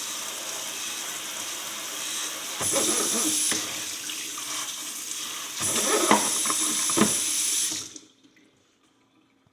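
Kitchen tap running water into the sink as a horseshoe is wetted. The splashing gets louder twice, for a second or two each time, with a couple of light knocks. The tap is shut off about eight seconds in.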